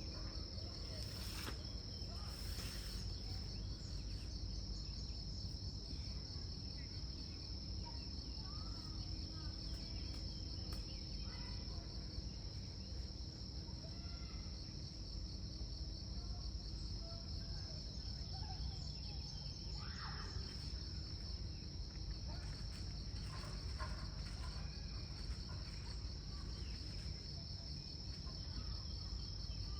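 A steady, high-pitched insect chorus that runs on without a break. A low rumble sits underneath, and a few faint short chirps come through here and there.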